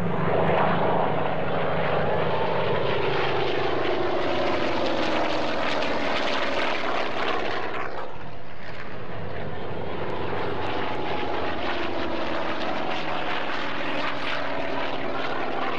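Propeller airplane's piston engine flying past, its pitch sliding down as it goes by, twice.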